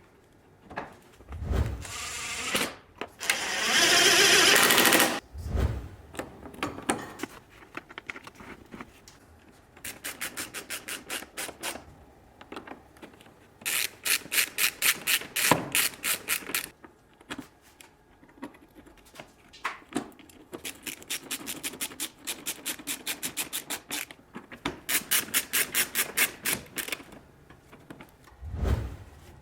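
Hand-tool work on a van's cooling system: several runs of rapid, even clicking, with a loud hiss about four seconds in.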